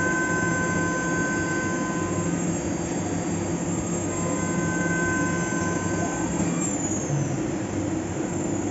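Fagima Jazz M five-axis CNC milling machine running a cut: a steady machining noise with a high, steady whine that drops out about two seconds in and comes back for a couple of seconds midway.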